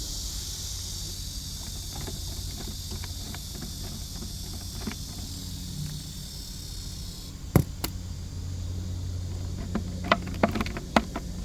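Steady high-pitched chirring of insects over a low hum, stopping abruptly about seven seconds in; then a few sharp clicks and knocks, with a cluster of them near the end.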